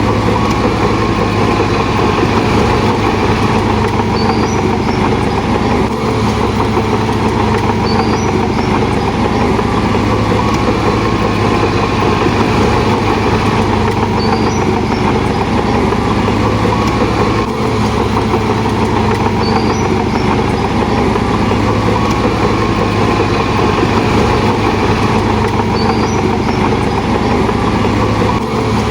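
Heavy diesel engine of earthmoving machinery running steadily and loudly.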